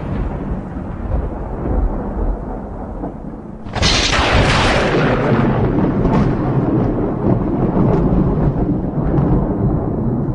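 Thunder: a rumble dies away, then a sudden sharp crack about four seconds in, followed by a long rolling rumble.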